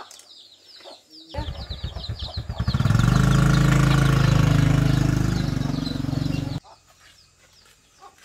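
Small Honda underbone motorbike's single-cylinder engine starting about a second in, running briefly at a low pulse, then revving loud and steady as the bike pulls away. The sound cuts off abruptly near the end.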